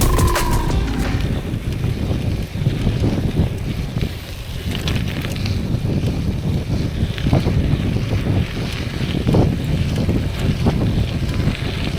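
Wind buffeting the microphone of a camera riding along on a bicycle over a dirt road: a loud, uneven low rumble and hiss, with a few short knocks from bumps along the way. A music track fades out in the first second.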